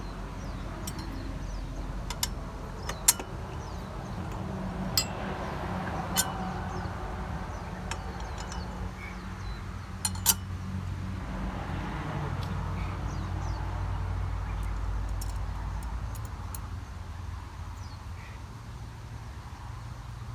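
Sharp metallic clinks of metal parts and tools being handled, a handful of them spread out, the loudest about 3 s and 10 s in, over a steady low hum with faint bird calls.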